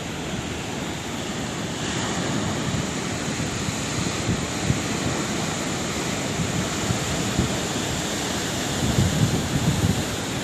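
Sea waves breaking and washing in a steady rush of surf, growing a little louder about two seconds in, with low gusts of wind buffeting the microphone near the end.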